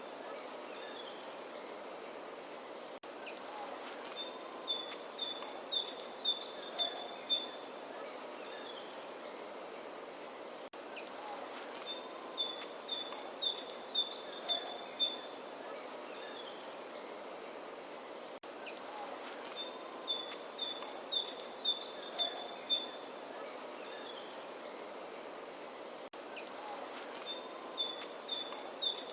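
Songbird singing the same phrase four times, about every eight seconds: a quick falling high note, then runs of short, rapid chirps on two pitches. Behind it is a steady, soft outdoor hiss.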